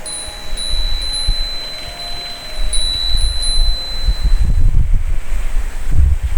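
A wind chime with a single high, clear note, ringing and struck again several times before fading away a little over four seconds in. Underneath are low, irregular rumbling gusts of wind on the microphone.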